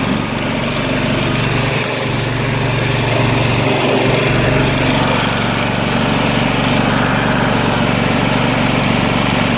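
Garden tractor engine running steadily at a constant speed.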